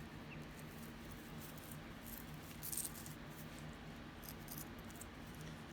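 Faint clinking and jingling of metal necklace chains and pendants being handled, a little louder just before the middle, over a low steady hum.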